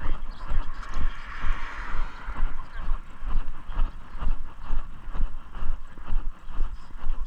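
Footsteps of a person walking at a steady pace, about one and a half to two steps a second, each step a low thump with the microphone jostling. A brief rushing noise comes in about a second in and fades a second later.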